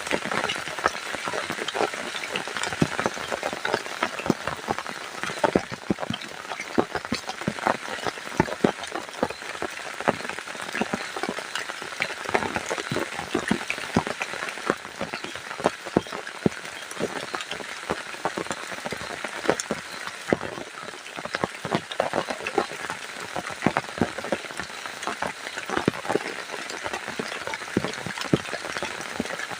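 Heavy rain falling steadily, with a dense patter of many separate drops striking close by.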